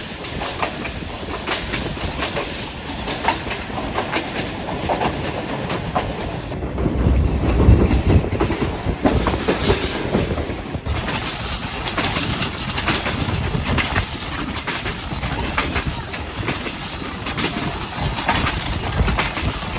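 Hazara Express passenger train running along the track, its wheels clacking over the rail joints with a steady rumble. The rumble grows louder for a few seconds about seven seconds in.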